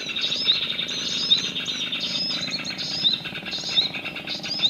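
Small birds chirping and calling, with a high rising-then-falling chirp repeated about twice a second over dense, overlapping chatter.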